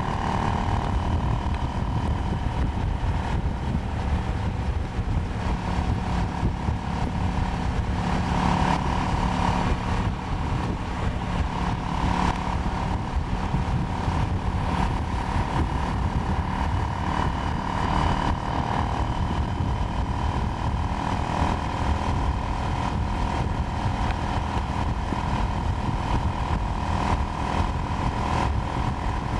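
KTM Duke 790's parallel-twin engine running at a fairly steady cruise, its pitch rising and falling only slightly, with wind rush and road rumble over it.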